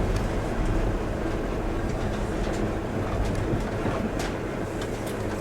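Diesel passenger train rumbling as it pulls into the station, its engine note steady and gradually quieter as it slows, with occasional clicks of wheels over rail joints.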